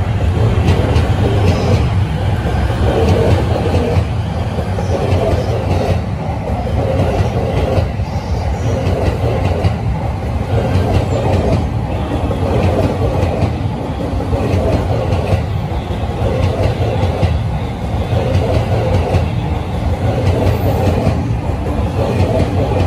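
A green-striped JR commuter electric train runs past close by along the platform. Its wheels and running gear make a steady rumble on the rails.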